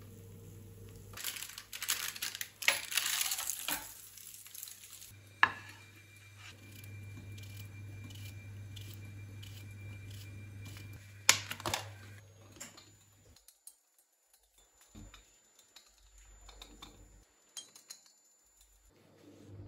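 Dishes and utensils clattering and knocking in a kitchen, loudest for a few seconds near the start, with sharp single knocks later, over a low steady hum.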